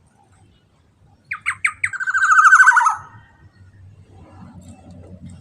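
Black-naped oriole (kepodang emas) calling loudly once, about a second in: three quick down-slurred notes running straight into a fast, rasping series that falls in pitch, lasting under two seconds.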